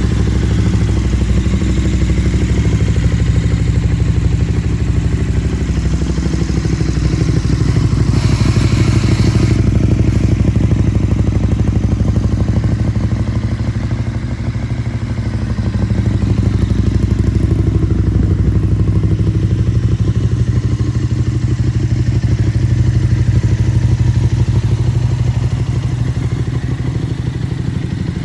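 KTM 1290 Super Duke's V-twin engine running steadily with a low, pulsing note, dipping slightly in level now and then. A brief burst of hiss comes about eight seconds in.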